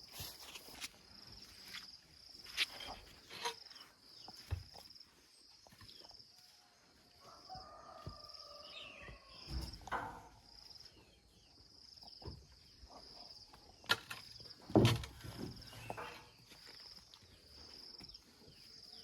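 An insect chirping in a steady, high-pitched call of evenly spaced pulses, with scattered knocks and footstep-like clicks over it and a louder knock about fifteen seconds in.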